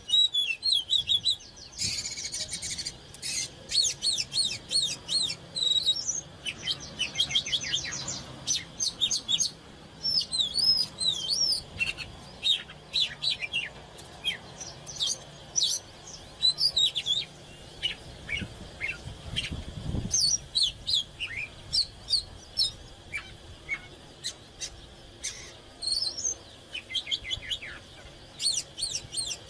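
Oriental magpie-robin singing: a long, varied run of whistled phrases, chirps and quick trills, with barely a pause between them.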